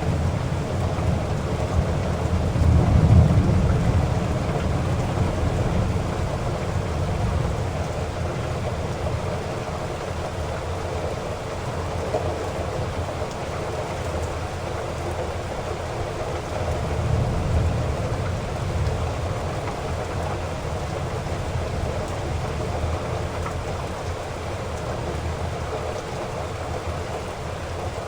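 Heavy rain falling steadily, with low rolling thunder that swells about three seconds in and again a little past the middle.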